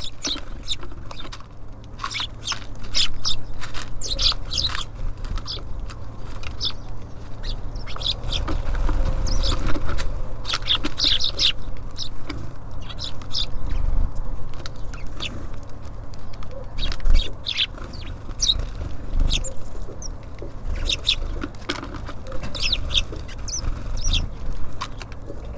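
Small songbirds at a feeder giving many short, high chirps in irregular clusters, over a low rumble.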